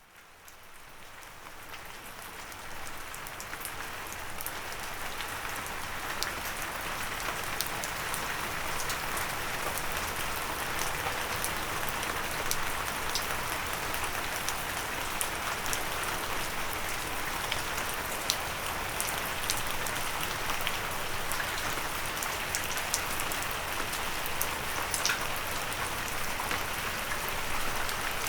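Rain falling steadily onto a windowsill, a dense hiss with individual drops ticking sharply through it. It fades in over the first few seconds, then holds steady.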